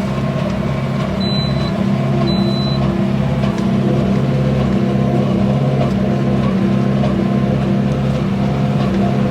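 Tractor engine running steadily under load while pulling a Massey Ferguson small square baler, with a regular low pulsing from the baling running beneath the engine's steady hum.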